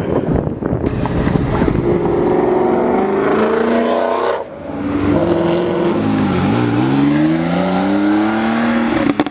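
Performance car engine and exhaust accelerating hard, the pitch climbing, then a short break about four seconds in before it pulls again, dipping briefly and rising steadily through the gears.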